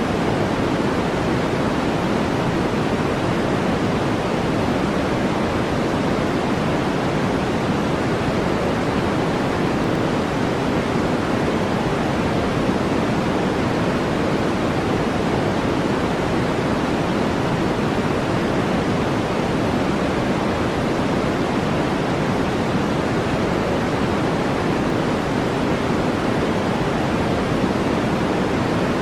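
Steady brown noise: an even, unchanging hiss weighted toward the low end, with no tones or clicks.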